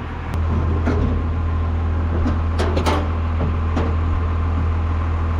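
Old backhoe's engine running steadily just after firing up, a low even drone with a few short clicks about a second in and again near the middle.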